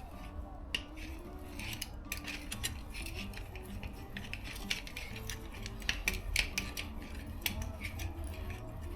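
Car jack being cranked up to raise the car, giving light, irregular clicks and ticks over a low hum.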